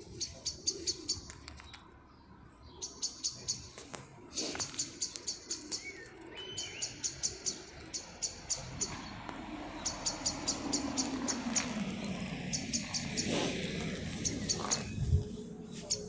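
A small songbird calling in quick runs of sharp, high chirps, each run a handful of rapid notes, repeated every second or two.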